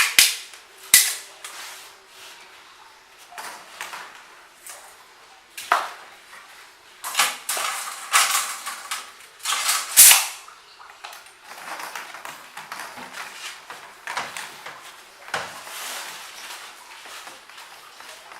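Irregular sharp knocks and clatter of tools and hardware being handled during installation work, with a few longer noisy bursts between about seven and ten seconds in.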